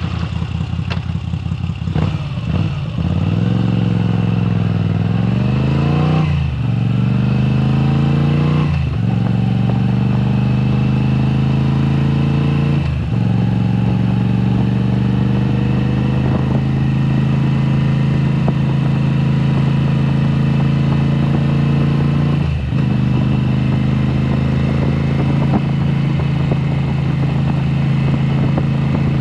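2022 Moto Guzzi V7 Special's 853 cc air-cooled V-twin through a Mistral exhaust with the dB killers removed, pulling away and revving up through the gears. Its pitch rises and drops sharply with three quick upshifts, then settles into a steady cruise.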